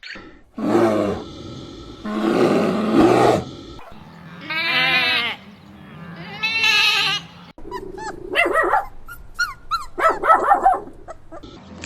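A run of separate animal calls, one after another: two rough, noisy calls in the first few seconds, two longer pitched cries around the middle, then several shorter pitched calls.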